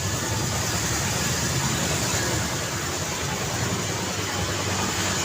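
Steady road traffic noise: car and motorcycle engines and tyres on the road, with no single loud pass-by standing out.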